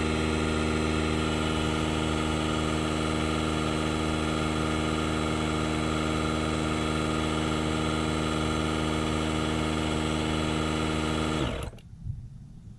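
DeWalt DCC020I cordless air inflator's compressor running steadily while pumping up a flat tire. About eleven seconds in its pitch falls and it stops: the automatic shut-off at the set pressure.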